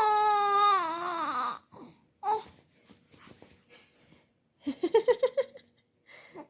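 A child imitating a horse's whinny with her voice: a long call falling in pitch that ends about a second and a half in, then near the end a quick shaky trill of about eight short pulses.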